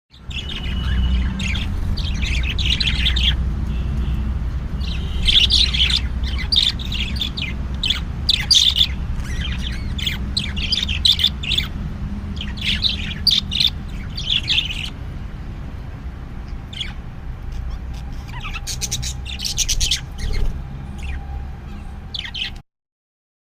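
Baby sparrow chirping in rapid, repeated bursts of high, shrill cheeps, thinning out over the last third, over a steady low rumble.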